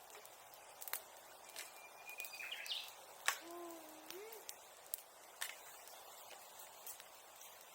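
Bonfire crackling, with sharp pops and snaps of burning wood at irregular intervals; the loudest pop comes about three seconds in. A brief thin whistle rises about two seconds in. Just after the loud pop comes a short low call that rises at its end.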